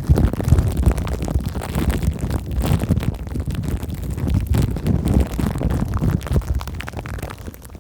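Close-miked handling of plastic cling film and foam for ASMR: a dense, continuous crackle and rustle with a heavy low rumble.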